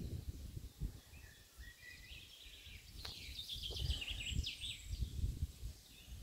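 Small birds chirping: a few scattered high chirps, then a quick run of them around the middle, over a constant low rumbling noise.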